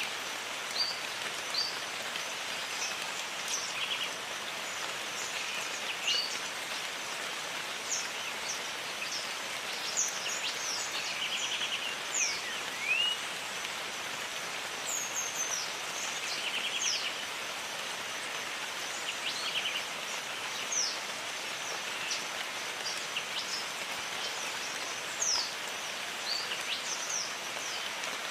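Steady rain falling, with birds calling now and then in short whistled notes that mostly fall in pitch, and a few brief trilled buzzes scattered through.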